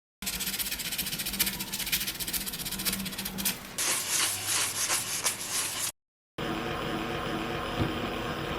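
Brisk scrubbing and rubbing on metal parts of a rust-covered Facit typewriter, many quick scratchy strokes that turn to a finer, brighter hiss about halfway through. A cut brings a short silence, then a second take of rubbing with a faint steady hum under it.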